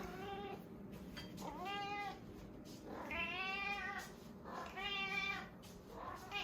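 Female domestic cat meowing insistently for her food: a faint short meow, then three long meows about a second and a half apart, each rising and falling in pitch, and a short one at the end.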